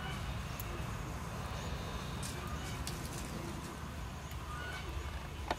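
Birds calling over a steady low background hum, with one sharp click near the end.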